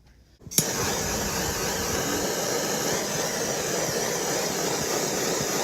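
An electric hot-air blower switches on with a click about half a second in, then runs with a loud, steady rush of air.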